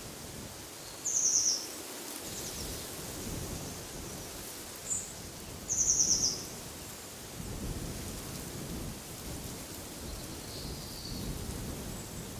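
Wind gusting, rumbling low on the microphone, while a songbird gives two short, rapid series of high notes, about a second in and again near the middle, with a brief chirp between them and a fainter call near the end.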